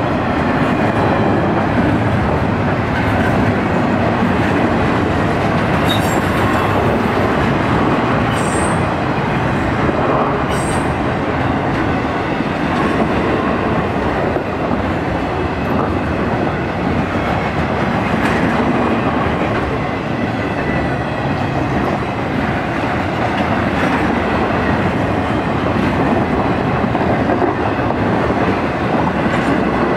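BNSF intermodal freight train's loaded well cars and trailer-carrying flat cars rolling past: a steady, loud rumble and rattle of steel wheels on the rails. A few brief high squeals come from the wheels about six to eleven seconds in.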